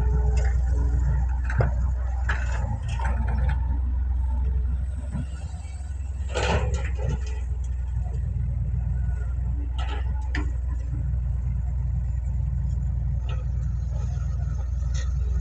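Heavy diesel engine of a Doosan DX180W excavator running with a steady low rumble that eases briefly around the middle. A few sharp clanks and scrapes come from the bucket working mud into a dump truck.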